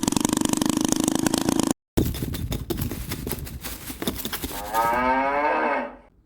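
A rapid mechanical clatter over a steady hum, cut off abruptly about two seconds in, followed by more ticking; near the end a cow moos once, the call falling in pitch.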